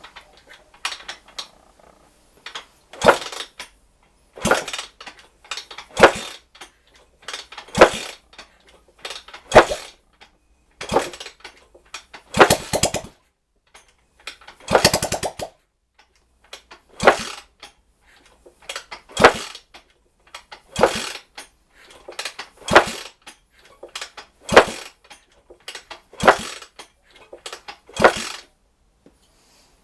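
A hammer striking metal parts during the engine assembly, about one sharp blow every two seconds and some sixteen in all, with two longer runs of quick strikes a little before and a little after the middle.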